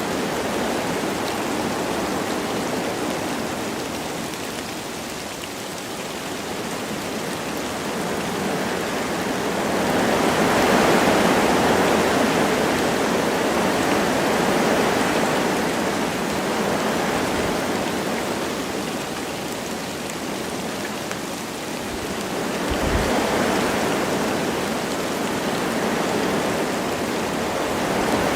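Wind gusting through forest trees with light rain falling: a steady rushing that swells about ten seconds in and slowly eases again.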